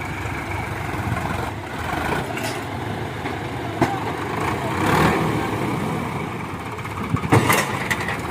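John Deere 5105 tractor's diesel engine running steadily, with a few sharp knocks, the loudest a little over seven seconds in.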